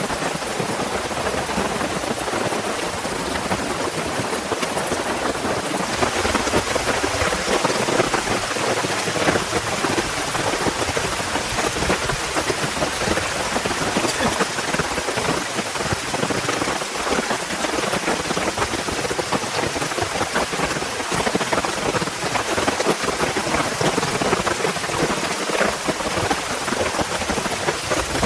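Heavy rain falling steadily, a dense hiss full of individual drop hits, growing a little stronger about six seconds in.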